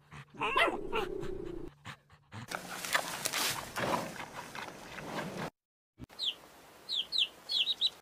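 A dog's short whimpering yips, then a stretch of crackly crunching as a giant panda chews bamboo, then a quick run of short, high, falling chirps near the end.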